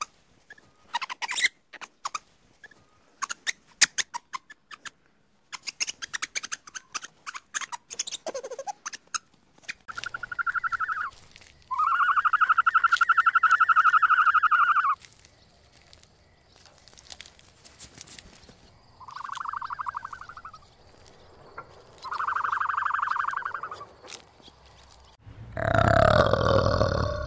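Animal calls: a run of rapid clicking squeaks, then four separate drawn-out pitched calls, the longest lasting about three seconds, and a loud, deep grunt near the end.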